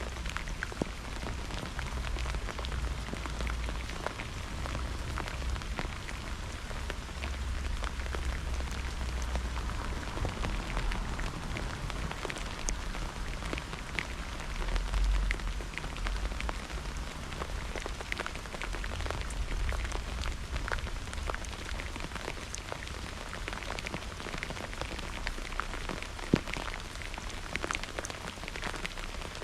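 Rain falling steadily in a thunderstorm, with many individual drops striking close by. A low rumble runs underneath and swells around the middle. One sharp tap comes near the end.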